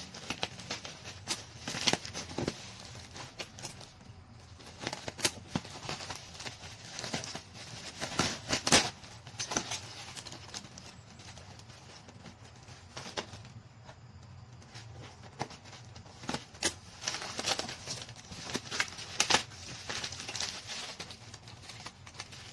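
Irregular clicks, taps and crinkling from something being handled, several sharper knocks among them, the loudest about nine seconds in.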